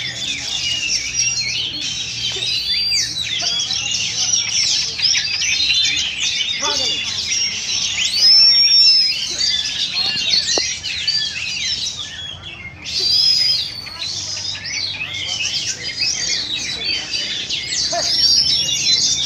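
Many caged oriental magpie-robins (kacer) singing at once: a dense tangle of overlapping whistles, trills and chirps, with a short lull about twelve seconds in.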